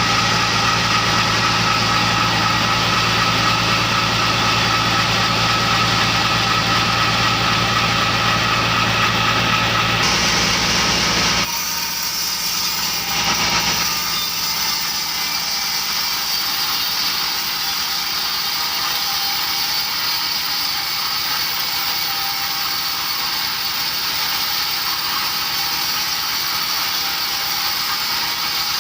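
Sawmill machinery engine running steadily with a low hum; about eleven seconds in it gives way abruptly to a thinner, hissing machine noise with little low end.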